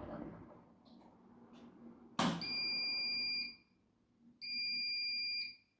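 Washing machine's electronic signal beeping: a sharp click about two seconds in, then two long steady beeps of about a second each, a second apart, typical of an end-of-programme signal.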